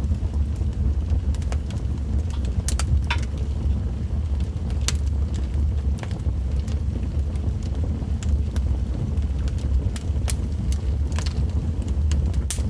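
Wood fire in a fireplace crackling, with sharp pops and snaps at irregular intervals over a steady low rumble.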